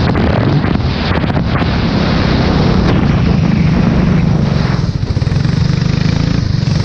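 Formula 4 race car engine running hard on a wet track, with a steady wash of spray and wind noise over it. About five seconds in, the hiss thins out and the engine note settles lower.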